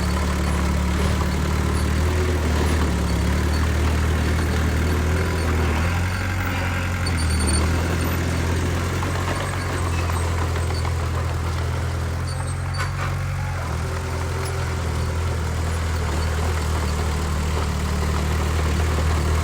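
Heavy earthmoving machinery's diesel engine running steadily at low revs, its pitch shifting slightly now and then.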